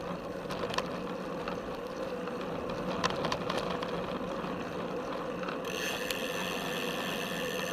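Felt F75 road bike heard from its top tube: tyres rolling on pavement with scattered sharp clicks and rattles from the frame. About two-thirds through, the rear freewheel starts a steady high buzz of ratcheting pawls as the rider stops pedalling and coasts.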